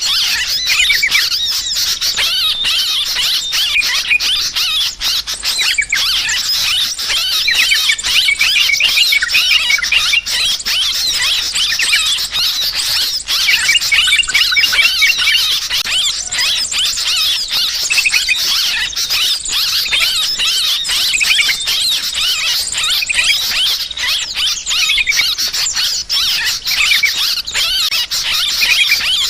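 Yellow-vented bulbuls calling in a rowdy, dense chatter of overlapping high chirps and squeaks that goes on without a break.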